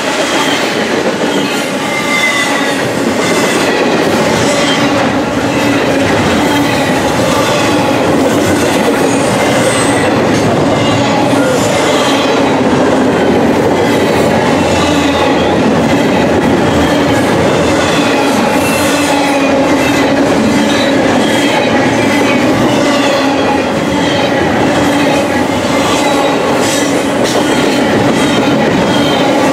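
Steady loud rumble and clatter of steel wheels on rail as double-stack intermodal well cars pass close by at track speed.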